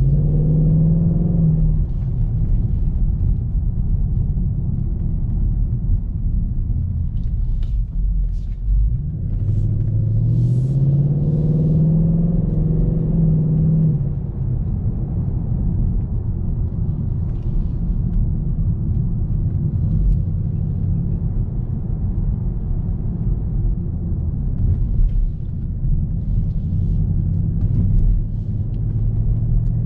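Ford Mustang GT's 5.0 V8 running under way, a steady low rumble with road noise. The engine note climbs under acceleration twice, right at the start and again about ten seconds in, holding for a few seconds the second time before dropping back.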